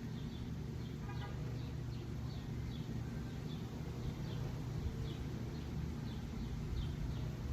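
A bird chirping over and over, about two short, high, falling chirps a second, over a steady low rumble.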